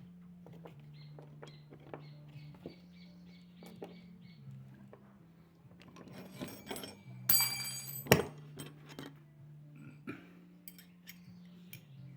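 Small metal screws and parts clinking and tapping as they are handled during reassembly of a washing machine gearbox, with a brief ringing clink about seven seconds in and a sharp knock just after.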